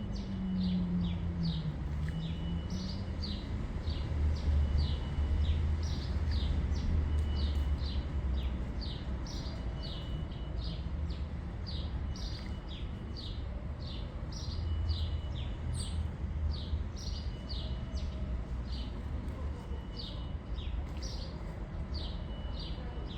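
Small birds chirping: a steady run of short, high, falling chirps, about two a second, over a low steady rumble.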